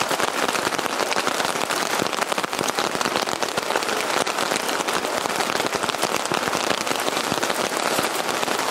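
Heavy rain falling steadily, a dense patter of drops striking the tent fabric close to the microphone.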